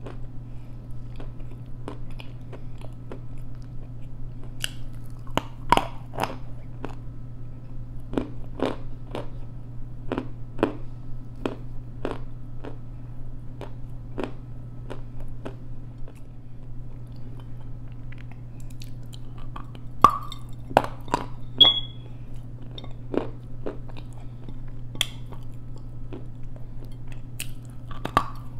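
Close-miked chewing of chunks of edible clay: irregular crisp crunches, about one or two a second, with a few louder bites about a fifth of the way in and again about two thirds through. A steady low hum runs underneath.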